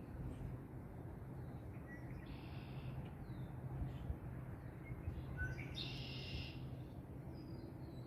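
Wild birds calling, with two harsh, buzzy calls about two and a half seconds in and again near six seconds, and a few short high chirps, over a steady low background rumble.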